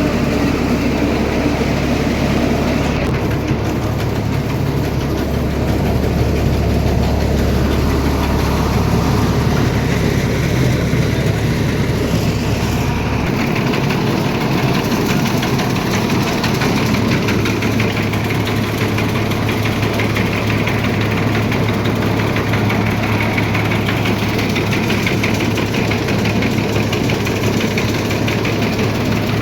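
Tractor diesel engine running steadily while driving a rice mill. About halfway through, its low drone steps up in pitch as the engine speeds up.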